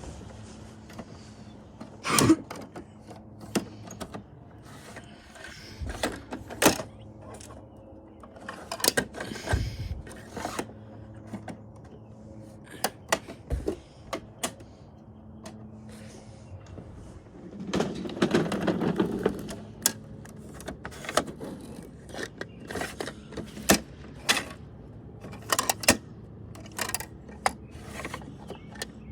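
Plastic toy garbage trucks being handled: irregular sharp clicks and knocks, with a longer rattling stretch a little past the middle.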